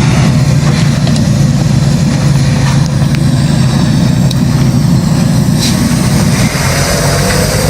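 Heavy logging truck's engine running steadily, a loud low hum with mechanical noise over it.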